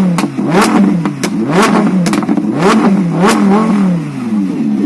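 Lamborghini Huracán V10 engine and exhaust being revved in a quick series of throttle blips, the pitch rising and falling about twice a second with a sharp crack at each peak, easing back toward idle near the end.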